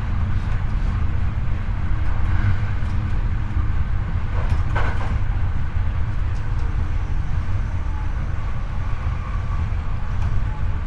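Running noise of a Hankyu 8300 series electric train, heard from the floor above a powered bogie: a heavy, steady wheel-and-track rumble with faint traction motor tones. There is one sharp knock a little under halfway through.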